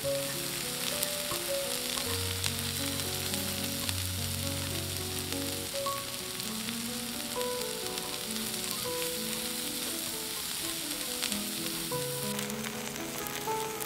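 Bracken fern shoots (gosari) sizzling as they are stir-fried in a hot cast-iron wok and turned with chopsticks: a steady frying hiss with scattered crackles. Soft background music plays underneath.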